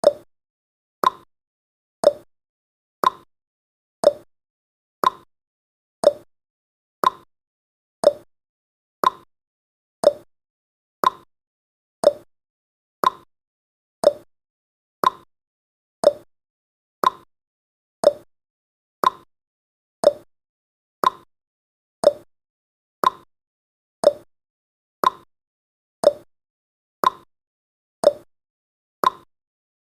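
Countdown timer's ticking sound effect: one short clock-like tick every second, alternating between a lower and a higher tick, tick-tock fashion.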